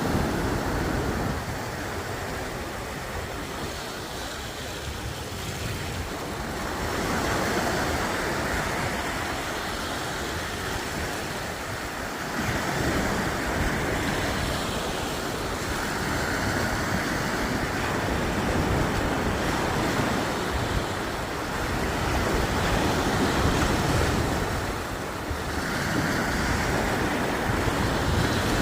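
Sea waves washing onto the shore, a steady rush of surf that swells and eases every few seconds, with wind rumbling on the microphone.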